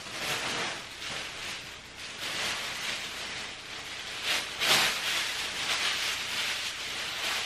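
Rustling and crinkling of bags or packaging as purchased items are handled, in uneven bursts with a louder crinkle about two-thirds of the way through.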